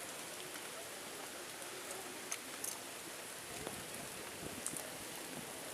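Light to moderate rain falling, a steady even hiss with a few sharp drop ticks, picked up by an action camera's built-in microphone.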